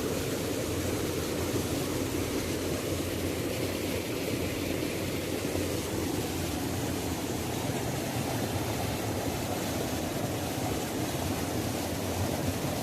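Waterfall: a steady, unbroken rush of falling water, deep and full, with no change in level.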